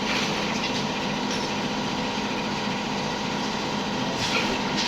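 A steady engine-like mechanical hum running at an even level, with a short burst of hiss just after the start and another near the end.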